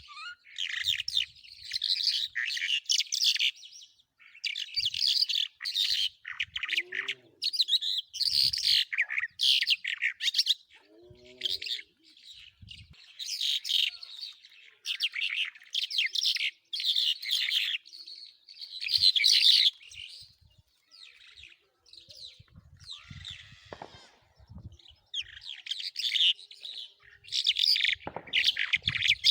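Songbird of the kind kept by fanciers as a 'jal', singing: rapid, high twittering phrases of a second or two each, repeated again and again with short pauses between.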